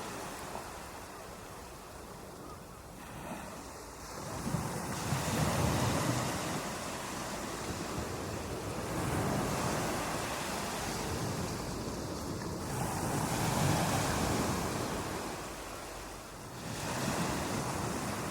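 Ocean waves breaking on a beach, the surf swelling and receding in repeated surges every four seconds or so.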